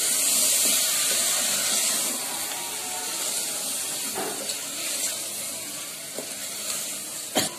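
Mutton, onions and freshly added tomatoes sizzling in hot oil and masala in an aluminium pressure cooker as they are stirred with a wooden spatula; the sizzle is loudest in the first couple of seconds. A single sharp click near the end.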